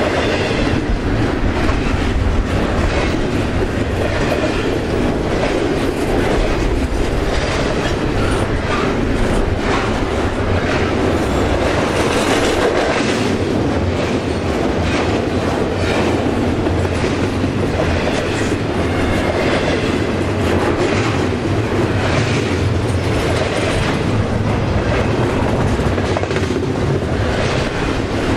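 CN double-stack intermodal freight train crossing a steel trestle: a steady rumble with the clickety-clack of wheels passing over rail joints.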